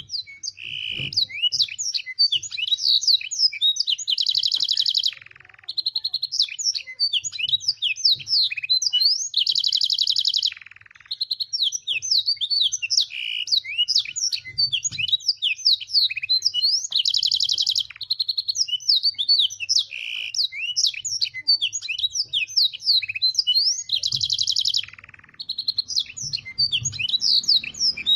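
Domestic canary singing a song filled with learned black-throated canary (blackthroat) phrases. Fast, high chirps and quick up-and-down sweeps run on without pause, broken about every seven seconds by a dense rolling trill held for about a second.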